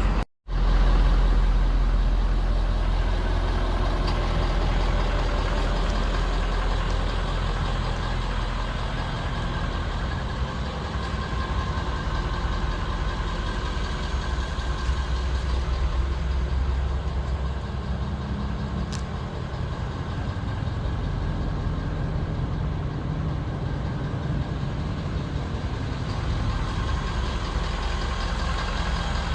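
Pickup truck engine running steadily with a deep low hum, after the sound cuts out for a moment near the start.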